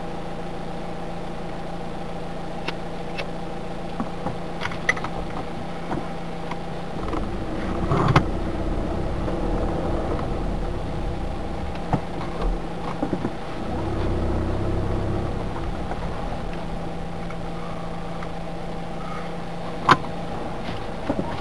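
Car engine idling steadily, heard from inside the cabin, with scattered light clicks and knocks. From about seven seconds in a deeper low rumble joins as the car moves off and turns, with a sharp knock near the end.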